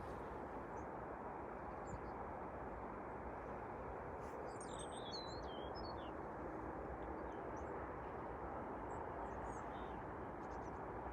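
Small birds chirping, a quick cluster of calls about midway and a few fainter ones later, over a steady low background rumble.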